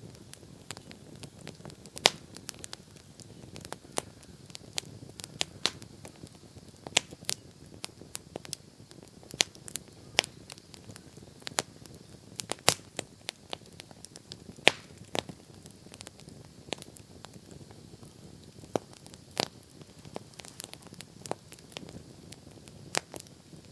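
Wood bonfire burning, crackling and popping irregularly with sharp snaps every second or so over the soft low rush of the flames.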